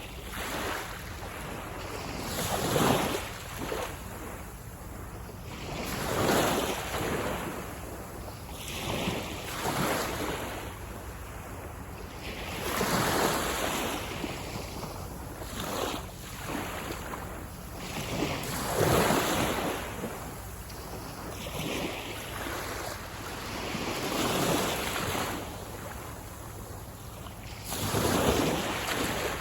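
Sea waves breaking and washing onto a beach, surging every few seconds in rolling swells of noise, with some wind on the microphone.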